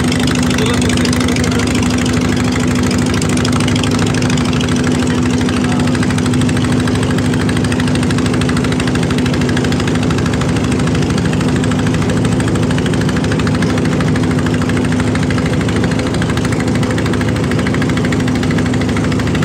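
A river boat's engine running steadily, a loud, even hum with a rattle underneath.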